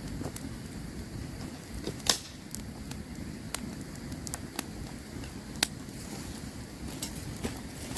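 Campfire crackling: a steady low rush of burning with irregular sharp pops and snaps, two louder pops about two seconds in and just past the middle.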